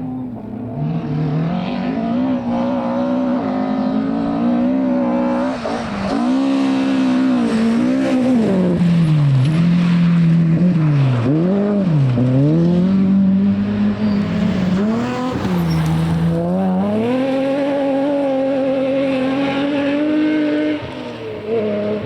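Rally car engine running hard through a corner: the revs climb through the gears, drop and pick up again several times in the middle as the driver comes off and back on the throttle, then hold high as the car pulls away.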